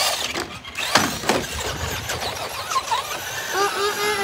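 Radio-controlled car driven onto rocks: its electric motor whines and rises in pitch, over a clatter of knocks as the wheels and chassis strike the rocks. Near the end the motor settles into a steady whine.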